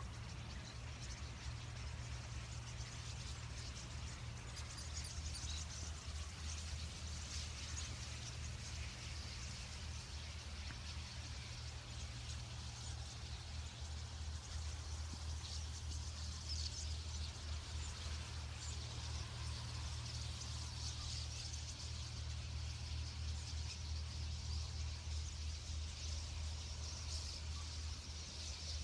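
Many birds chirping at once, a dense, continuous chatter of high calls, over a steady low hum.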